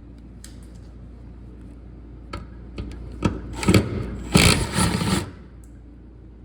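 Power wrench run in a few short rattling bursts over about two seconds, loosening bolts, after a few sharp metallic clicks.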